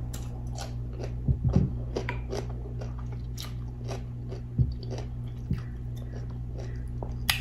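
Close-miked wet chewing and mouth clicks of a person eating saucy seafood boil, a run of small smacking sounds with a few soft thumps about one and a half and four and a half seconds in, over a steady low hum.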